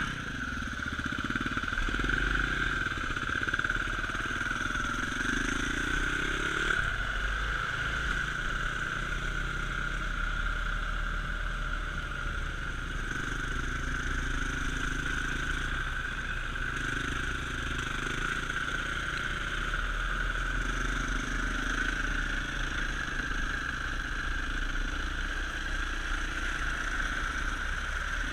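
Dirt bike engine running, its pitch rising and falling as the throttle opens and closes, with a clear climb in revs about five seconds in.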